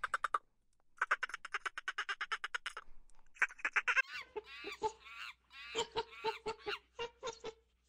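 Dolphin sounds as rapid buzzing trains of pulses, then, about four seconds in, monkeys giving a quick run of short, arched calls.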